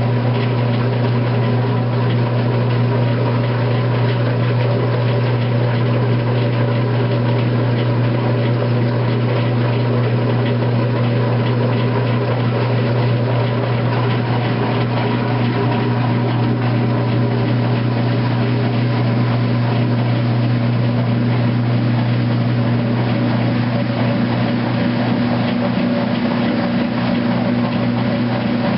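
2008 Kenmore top-load washing machine running its heavy duty cycle: a loud, steady motor hum.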